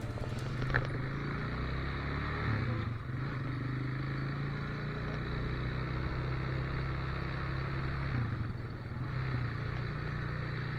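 Motorcycle engine running steadily at low revs, with small changes in pitch about three seconds in and again near the end, and a short click about a second in.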